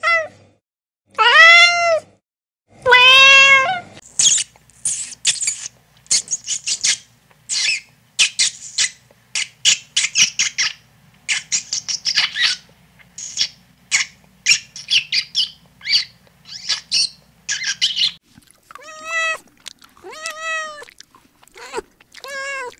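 Kittens meowing: about three long, loud meows at the start. Then a guinea pig squeaking in a fast run of short, high-pitched squeaks for about fourteen seconds. The meowing resumes near the end with four shorter mews.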